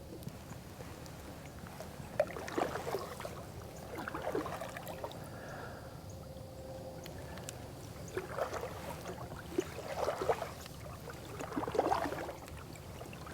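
Canoe being paddled: water gurgles and splashes around the paddle in short bursts a couple of seconds apart, about five strokes in all.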